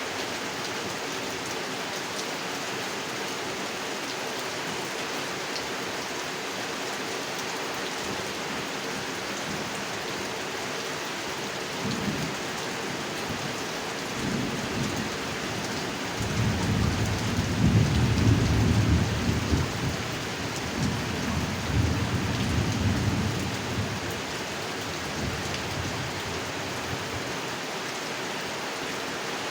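Steady rain falling, with a low roll of thunder that builds in the middle, swells to its loudest, and fades away again.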